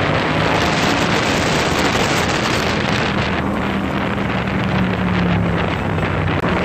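Hyosung GTR 250's V-twin engine running through an SC Project exhaust while riding, its note holding fairly steady and largely buried under heavy wind noise on the microphone.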